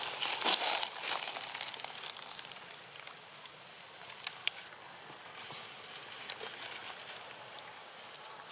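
Loud rustling and crackling, like dry leaves being disturbed, in the first second. After that, quieter outdoor ambience with a few sharp clicks and short high chirps.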